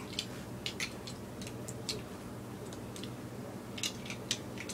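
Scattered light clicks and taps of small plastic toy pieces being handled and set down, irregular, in a cluster at the start and a few more near the end.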